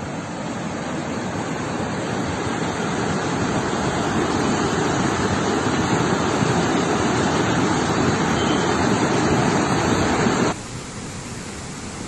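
Rushing floodwater: a steady, even noise that builds slightly. About ten seconds in it cuts suddenly to a quieter stretch of similar noise.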